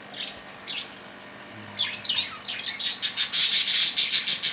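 Budgerigars squawking and chirping: a few short calls at first, then from about two seconds in a fast, loud run of harsh chatter.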